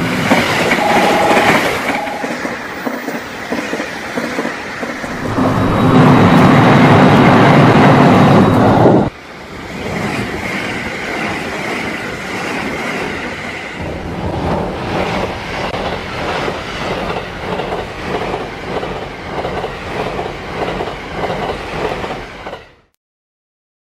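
Train running on rails, with a rhythmic clickety-clack of wheels over rail joints. A loud passage drops off suddenly about a third of the way in, the clatter picks up again, and the sound cuts off abruptly near the end.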